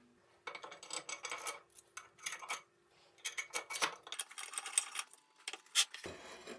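Light metal clinks, scrapes and rattles of steel milling-machine parts being handled and fitted, in short irregular runs with brief pauses.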